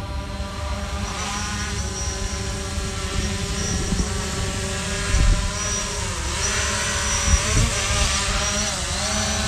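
Camera drone flying close by, its propellers buzzing with a steady multi-toned whine that dips briefly in pitch a few times in the second half.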